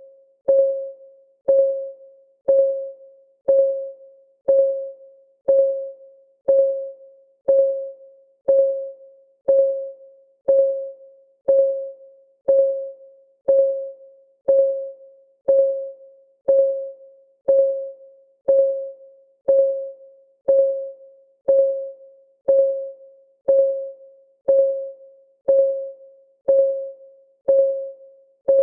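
Clock ticking sound of a countdown timer: a steady tick once a second, each tick a short pitched knock that rings briefly and fades.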